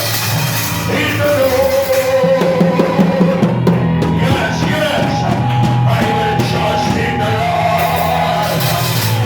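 Church praise music: singing with long held notes over a live band's steady bass and accompaniment.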